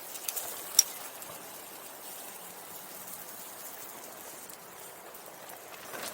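Small wood fire burning: a steady hiss with a few crackles, one sharp pop just under a second in.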